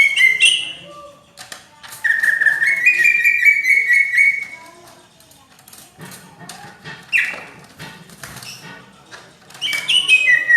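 Cucak ijo (green leafbird) singing loud whistled phrases with fast stepping notes. The phrases come in bursts: a short one at the start, a long one of about three seconds, a brief downward-sweeping call, and another phrase beginning near the end.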